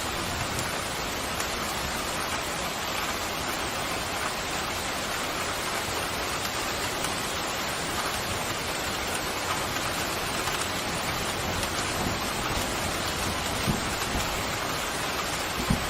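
Steady, heavy rain falling, with two short low thuds near the end.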